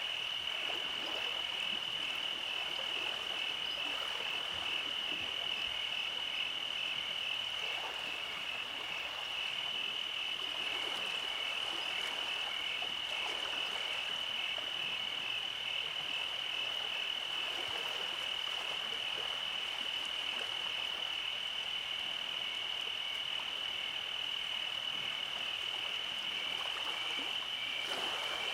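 Steady night chorus of many calling animals: a continuous high, fast-pulsing trill that holds the same level throughout, over a faint soft hiss.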